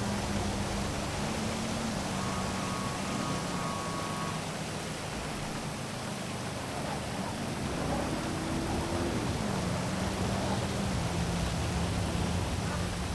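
Steady hiss of heavy rain over a city, under the low hum of traffic engines. The hum shifts in pitch and briefly rises and drops back a little past the middle.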